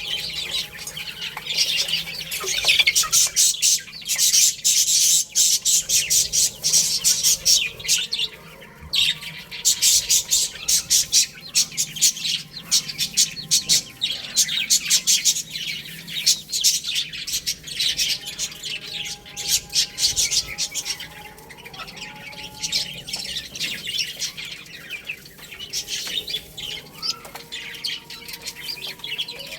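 A flock of baby chicks chirping continuously, with many rapid, high-pitched peeps overlapping.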